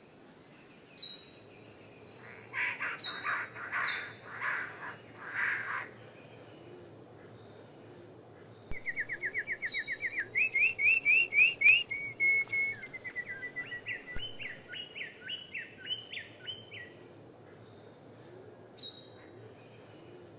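Songbirds singing and calling: a few harsh calls early, then a fast trill of clear repeated notes that runs on into further phrases, with short high chirps scattered between.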